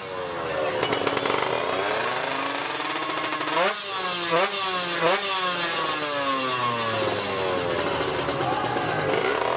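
Racing motorcycle engines at high revs. The engine note keeps sliding down in pitch and jumps sharply back up three times in quick succession about four to five seconds in.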